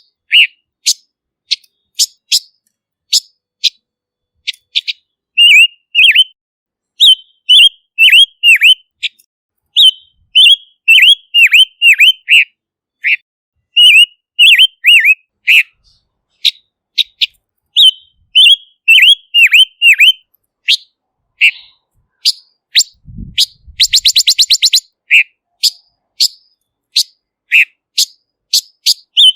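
Silver-eared mesia calling: short, sharp notes that dip in pitch, given singly and in quick runs of two to four. A fast rattling trill comes about 23 seconds in and lasts about two seconds.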